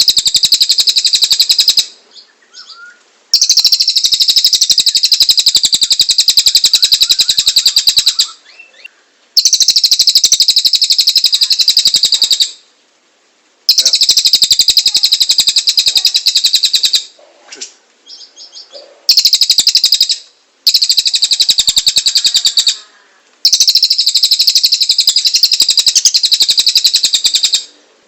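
A cililin songbird in full song, delivering its harsh rapid-fire 'tembakan' phrases. These are long, very fast, high trills of rapidly repeated notes, each lasting a few seconds, broken by short pauses with softer chirps.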